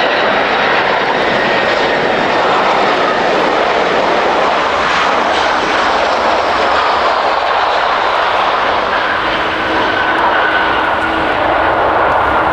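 Jet airliner passing close by, its engines loud and steady, with a whine that slowly falls in pitch.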